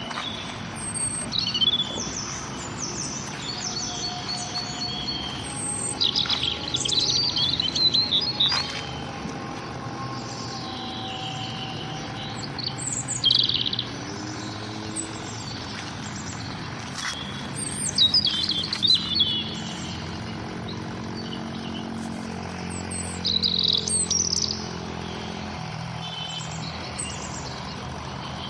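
Several small songbirds chirping and singing in short high trills and bursts, some close and loud, over a steady low background hum.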